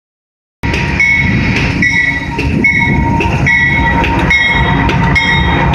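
Union Pacific coal train approaching behind GE AC4400CW diesel locomotives, a steady low engine and wheel rumble, starting about half a second in. Over it a grade-crossing bell rings, a struck tone about every 0.8 s.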